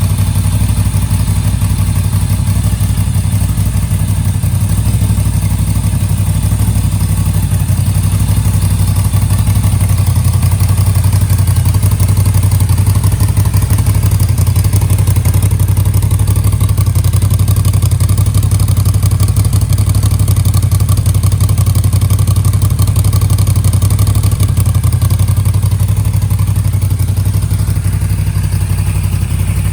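Moto Guzzi V7 III's air-cooled transverse V-twin running steadily through Mistral short exhaust silencers, most likely at idle, with a deep, even exhaust note.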